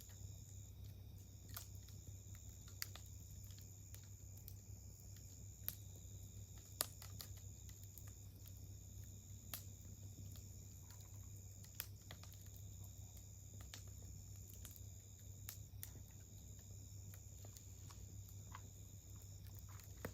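Wood campfire crackling: faint, irregular sharp pops and snaps, the loudest about seven seconds in. Underneath runs a steady low rumble and a thin, steady high-pitched tone.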